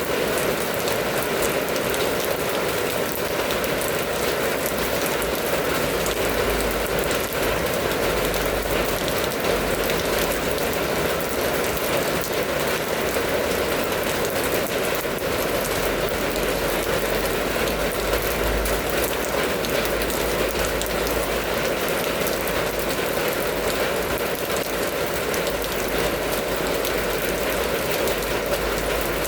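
Steady rain falling: a dense, even hiss of many drops that does not let up.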